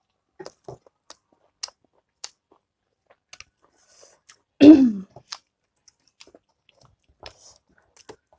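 Close-miked chewing, with soft wet mouth clicks and smacks scattered throughout. About halfway through comes one short, loud throat sound that falls in pitch.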